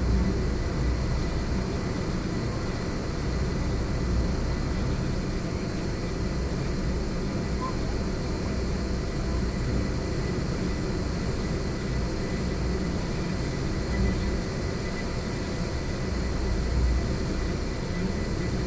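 Steady low engine rumble of a passenger ferry under way, with wash noise and a faint steady high whine.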